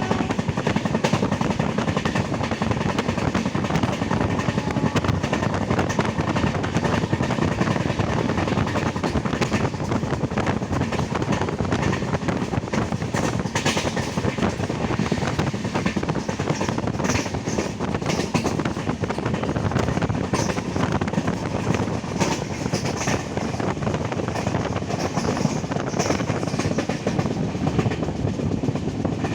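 Passenger train running along the line, heard from on board: a steady rumble of wheels on rails with scattered sharp clacks over the rail joints in the second half.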